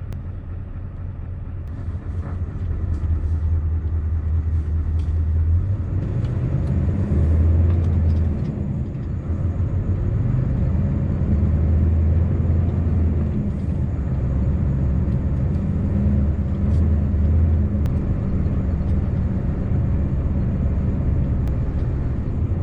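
Scania V8 diesel truck engine pulling away and driving on. Its low running note grows louder about two seconds in, then rises and falls several times as the revs change.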